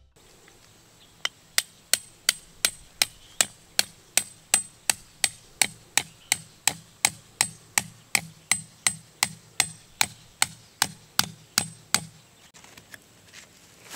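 Metal tent stake being driven into the ground with a hammer: a steady run of sharp blows, about three a second, stopping about twelve seconds in.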